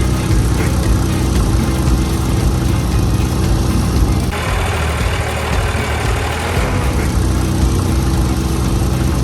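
Small engine of a DIY mini tractor running steadily. Past the middle, for two or three seconds, a hiss rises over it and the low engine note thins out.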